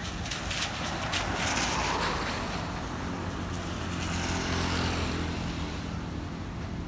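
Road traffic on a wet street: a vehicle passes with a rush of tyre hiss swelling and fading about one to two seconds in, then a low, steady engine hum builds and fades around four to five seconds.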